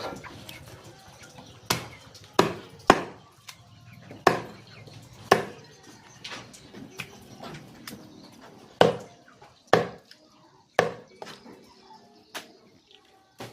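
Knife chopping through chicken breast: about ten sharp strikes at uneven intervals, some in quick pairs.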